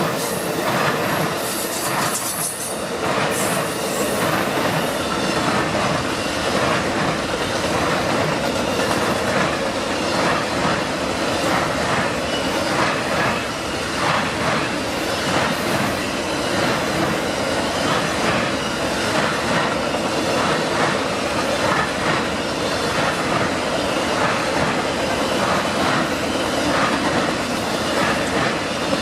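Amtrak Auto Train's long string of cars rolling past, wheels clacking over the rail joints in a steady run of clicks, with a steady tone running underneath.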